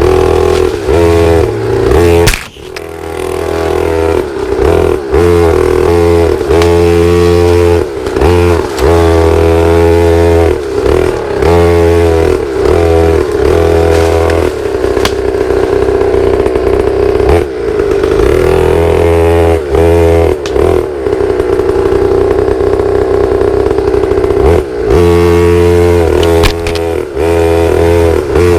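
Pit bike engine being ridden, repeatedly revving up and easing off as the throttle is worked, with a brief sharp drop in power a couple of seconds in.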